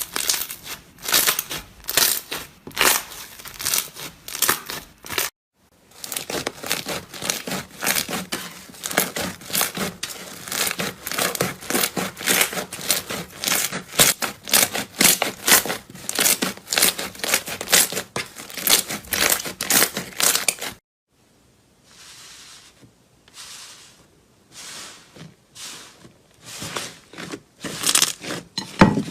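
Slime being squished and stretched by hand, making dense, rapid crackling and popping clicks. It stops briefly about five seconds in, then runs on until a pause after about twenty seconds, and comes back sparser and quieter.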